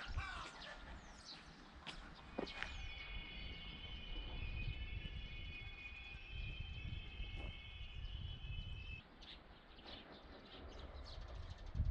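Faint outdoor ambience: small birds chirping, a steady high-pitched tone held for several seconds, and a low rumble of wind.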